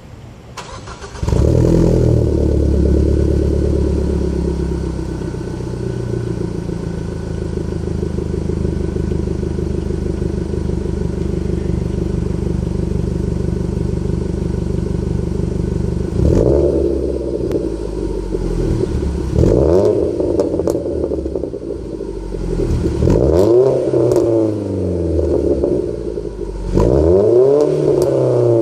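2014 Ford Focus 2.0-litre four-cylinder engine through a Ford Racing (Borla) cat-back exhaust. It cranks and starts about a second in and settles into a steady idle. In the second half it is revved several times, each rev rising and falling back to idle.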